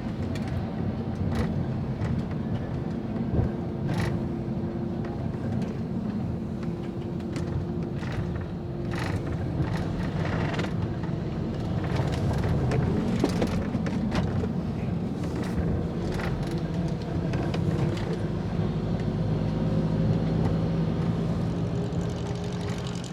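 Car engines running at a classic car race circuit: a steady engine drone, with an engine note that slowly rises in pitch near the end and scattered sharp clicks.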